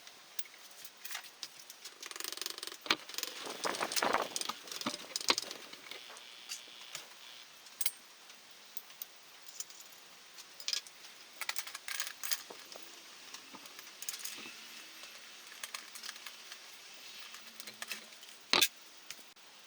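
Metal hand tools and parts clinking and rattling, with scattered sharp clicks, a busier stretch of clatter a few seconds in, and one louder click near the end.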